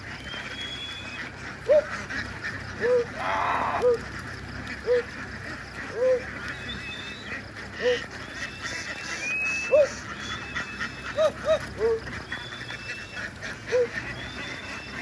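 A large flock of ducks quacking: a dense, continuous chorus, with single louder quacks standing out about once a second.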